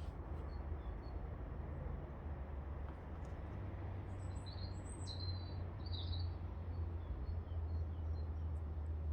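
A bird calling with several short high chirps, loudest in the middle, over a steady low rumble.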